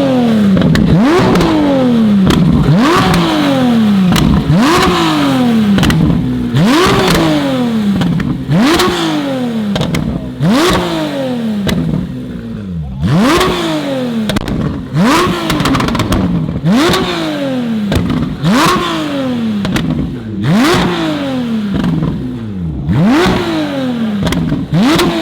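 A car engine being revved hard over and over, about once every two seconds. Each rev climbs fast and falls away more slowly, with a sharp crack near its peak.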